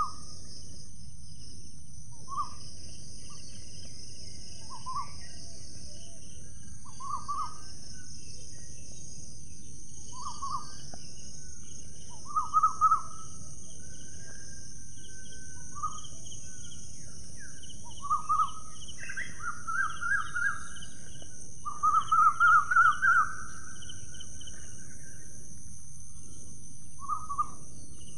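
Birds calling: a short call repeated every two to three seconds, with two louder runs of quick notes, one partway through and a longer one later on, over a steady high hiss.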